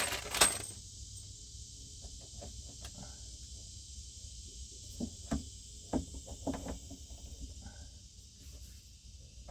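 Scattered light clicks and taps as a 1/2 inch PEX pipe and a crimp ring are handled and fitted together by hand, over a steady faint hiss.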